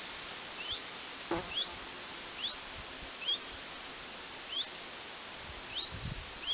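A bird calling: a short, high, rising note repeated about once a second, over a steady outdoor hiss.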